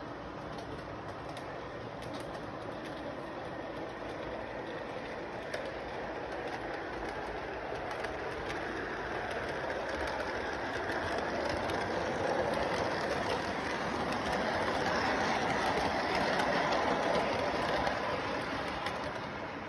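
A train running along its track with a steady rumble and clatter, growing louder through most of it, loudest near the end.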